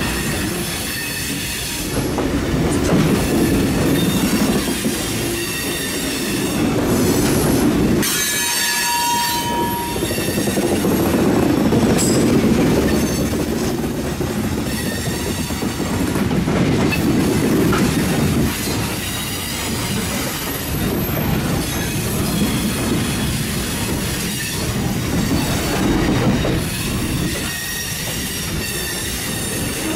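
Railroad hopper cars of a stone train rolling slowly past as the train backs along a curve: a steady rumble of wheels on rail with clickety-clack over the joints and high wheel squeals that come and go, the sharpest about eight seconds in.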